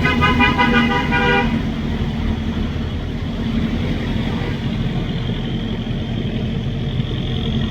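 Boat engine running steadily, with a horn sounding in a quick series of short toots for the first second and a half.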